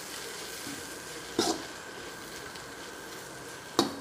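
Egg, vegetables and Schezwan sauce sizzling in an iron wok as a steel spatula stirs them. Two short sharp strikes of the spatula on the wok, about a second and a half in and near the end.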